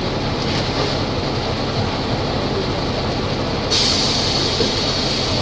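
Volvo B270F bus diesel engine running steadily under way. About two-thirds of the way through, a steady high hiss starts suddenly and carries on over the engine.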